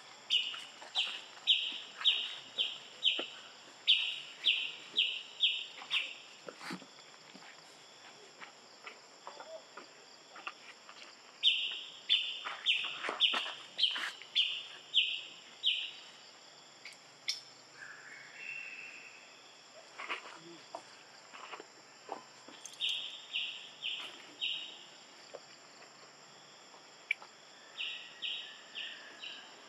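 A bird calling in runs of short, high, evenly repeated notes, about three a second, each run lasting a few seconds and starting again several times, over a steady faint high hum.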